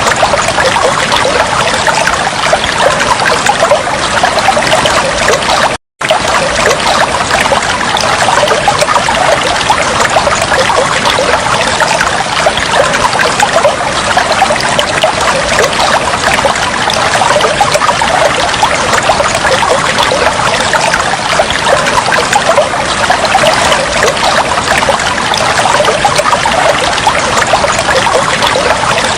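Water trickling and flowing steadily, with a split-second break to silence about six seconds in.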